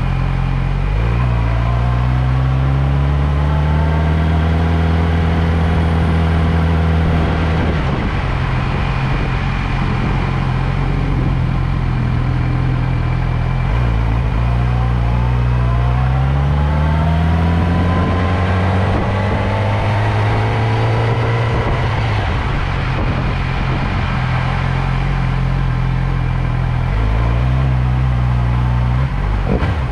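Motorcycle engine running under way, heard from the bike. Its pitch climbs as it accelerates, twice, and steps down at gear changes, over steady wind and road noise.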